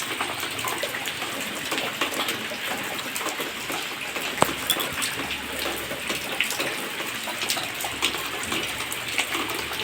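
Steady rainfall, with many sharp drips and splashes of drops landing in water-filled buckets and basins; one louder drip about four and a half seconds in.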